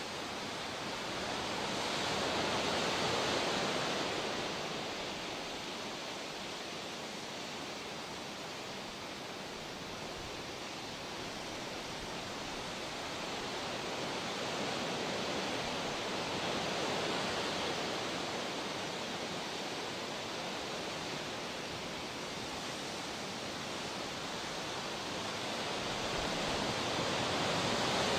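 Ocean surf: a continuous rush of waves, swelling and fading slowly, with a louder surge about every twelve to fourteen seconds.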